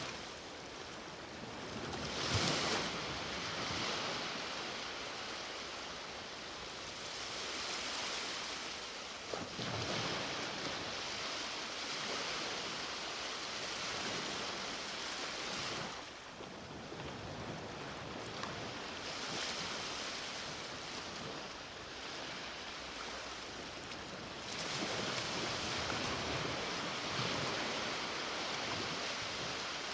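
Ocean waves breaking and washing up on a beach, coming in repeated swells with a few louder crashes.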